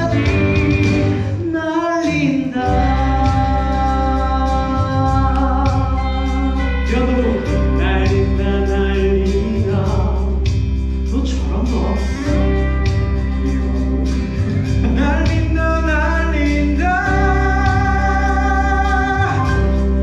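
Singers holding long notes with vibrato, in harmony, over a backing track with a steady beat and bass line. The bass drops out briefly about two seconds in.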